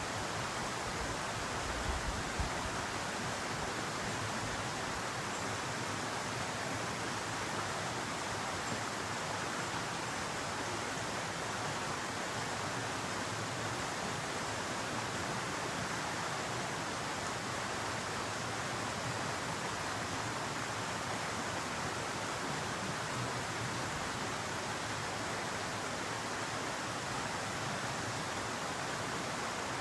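Stream water running steadily, an even rushing noise without breaks.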